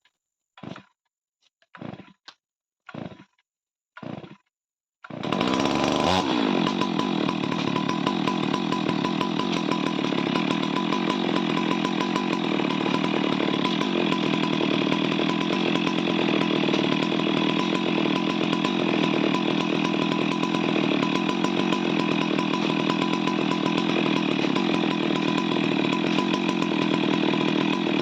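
Chainsaw: four short bursts of sound in the first few seconds, then from about five seconds in the saw runs continuously and loudly as it cuts wood.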